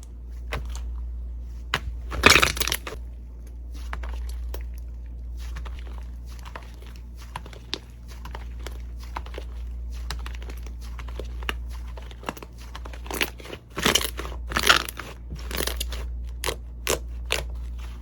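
Slime being pressed and worked by hand, giving scattered crisp clicks and pops. There is a louder crunchy crackle about two seconds in and another run of crackling from about 13 to 16 seconds.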